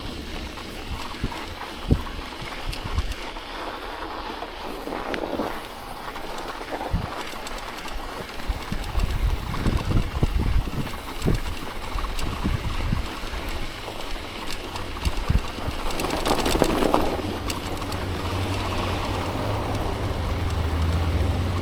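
Wind rumbling on a chest-mounted action camera's microphone while riding a bicycle through snow, with scattered knocks and clicks. A louder rush of noise comes about sixteen seconds in, and a steady low hum runs through the last few seconds.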